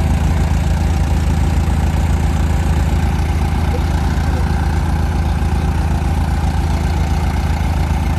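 Tractor diesel engine running steadily with an even, low, rapid throb.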